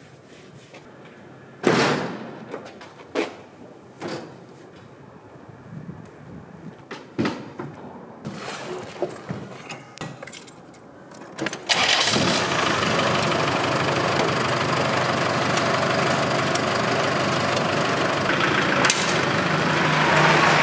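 A few knocks and clatters of work on the vehicle, then after about twelve seconds a 1970s Land Rover Series 3 engine starts and keeps running steadily: the first start after its repair.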